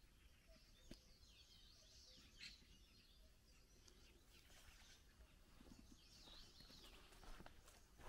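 Faint birdsong from small birds, chirping and warbling phrases throughout, with a sharp click about a second in.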